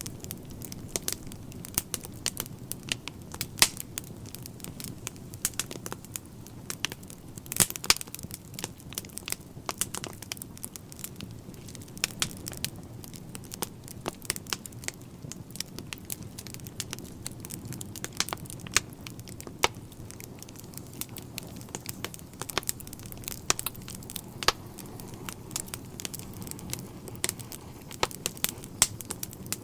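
Wood fire burning in a fireplace, crackling and popping irregularly over a steady low rumble of flame.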